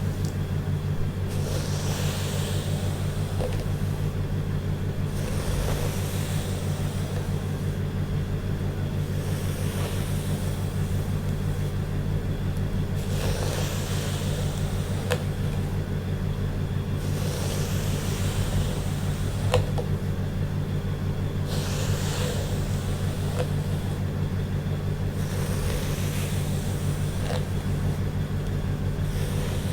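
Slow hair-brushing strokes, a soft swish about every four seconds with a few small clicks, over a steady low hum.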